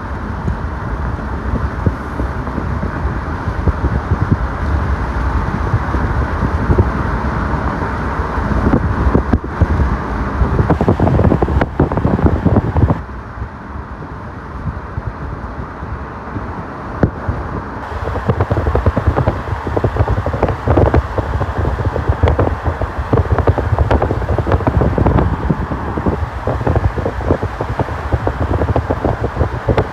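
Wind buffeting the microphone over a steady low rumble, as from a moving vehicle. It drops quieter for about five seconds around the middle, then returns.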